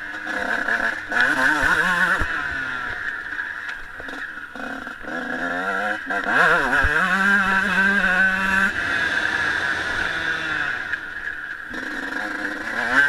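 Honda CR125 two-stroke motocross bike engine being ridden hard, its pitch climbing and dropping again and again as the throttle is worked through gears, easing off briefly about four seconds in before picking up again.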